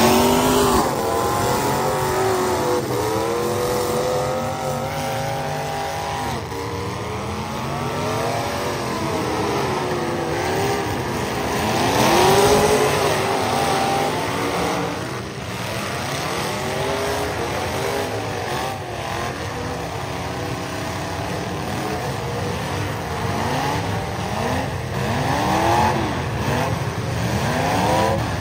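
Several demolition derby car engines revving up and down at once as the cars drive and ram each other, with a few sharp knocks from collisions.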